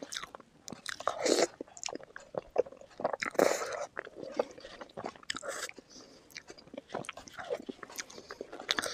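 Close-up eating sounds: biting and chewing chicken feet in curry, with irregular sharp crunches and wet smacks, and a louder slurp or suck about one and a half and three and a half seconds in.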